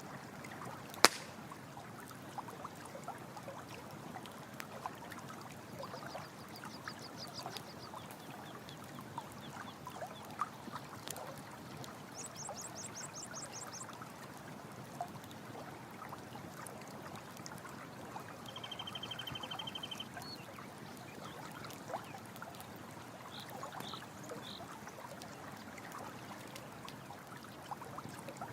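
Running water trickling steadily while a campfire crackles, with two sharp pops, one about a second in and one about eleven seconds in. Short, rapidly pulsed high chirps come in three times.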